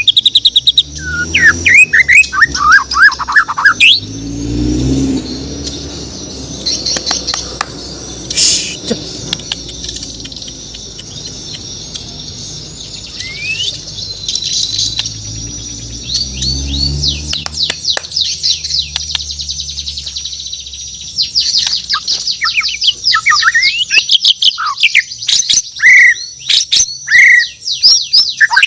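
White-rumped shama (murai batu Borneo) singing: rapid runs of chirps and whistled, sweeping notes, dense in the first few seconds, sparser through the middle, then a long fast burst in the last seven seconds. A low rumble comes in twice, around five seconds in and again near the middle.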